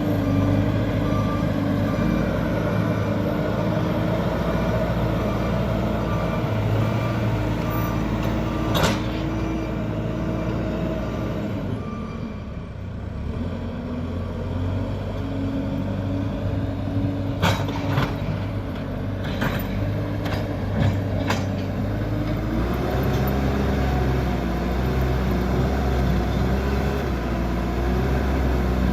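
JCB backhoe loader's diesel engine working, with its reversing alarm beeping about once a second through the first half. Several sharp knocks come in the middle, and the engine speeds up near the end.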